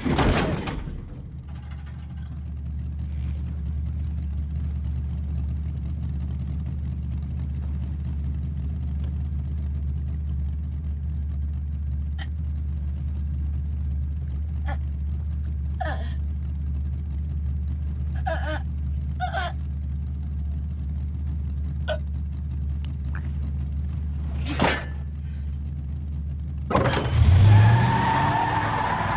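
A car engine running steadily as a low drone, with a loud noise at the very start that dies away within a second. Near the end the engine revs up loudly, its pitch rising.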